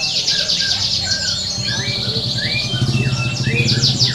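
Several domestic canaries singing at once in fast rolling trills and short rising chirps, with a low steady hum underneath.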